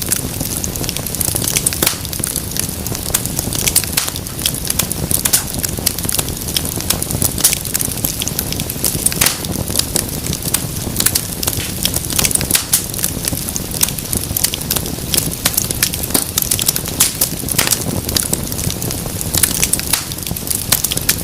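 Wood fire crackling in a fireplace: dense, irregular pops and snaps over a steady low rumble of burning.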